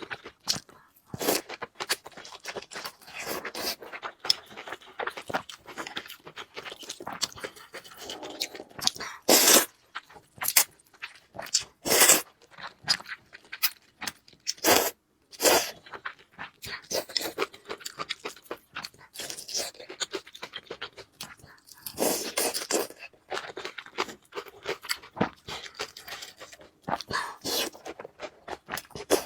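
A person eating close to the microphone: irregular chewing, crunching and wet mouth clicks, with louder bites or smacks now and then.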